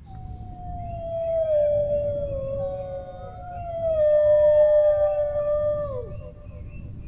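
Dogs howling: long drawn-out howls that overlap one another, slide slowly down in pitch, and fall away about six seconds in.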